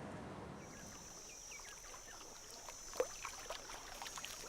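Faint water sounds in shallow water: small drips, plops and light splashes. A steady high tone joins about half a second in, and there is a sharper splash or click about three seconds in.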